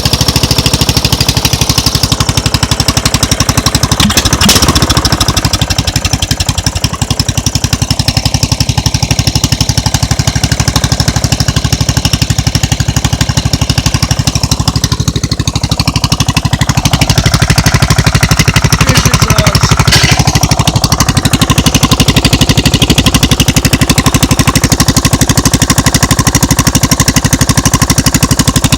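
Small V-twin engine running loud through a short straight-pipe exhaust with no muffler, an even, rapid firing beat. It picks up and runs a little louder about two-thirds of the way through.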